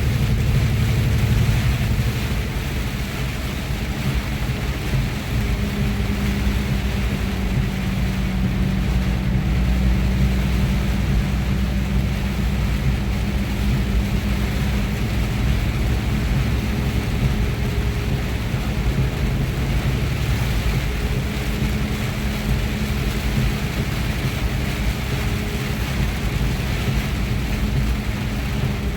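Truck's diesel engine running steadily at highway speed, heard from inside the cab, over steady road and rain noise.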